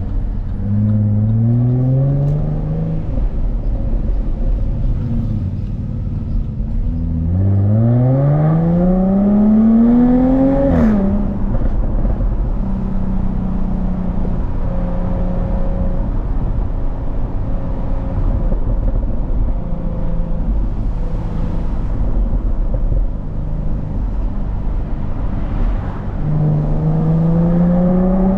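Jaguar F-Type S's supercharged 3.0-litre V6 accelerating through the gears: a short rise early on, then a long rising pull that ends in an upshift with a sharp crack about eleven seconds in, a stretch of steadier running, and another rise near the end.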